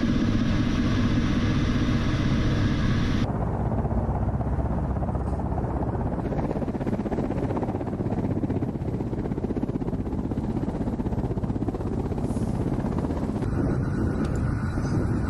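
Ka-52 attack helicopter's steady rotor and engine noise. About three seconds in, the sound changes abruptly and becomes duller.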